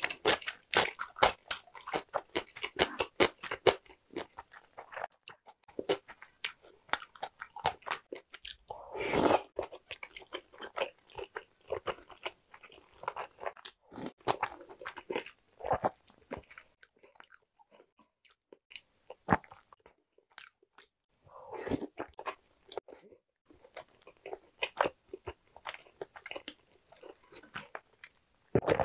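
Close-miked eating sounds from a mouthful of spicy rice-cake tteokbokki with boiled eggs: rapid wet chewing and smacking clicks, with sips of sauce from a spoon. A louder wet mouth sound comes about nine seconds in.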